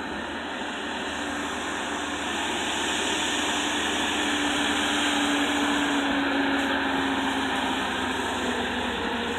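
Mack RD dump truck's diesel engine running with a steady whine, growing louder over the first few seconds and easing a little near the end, as the dump bed is raised.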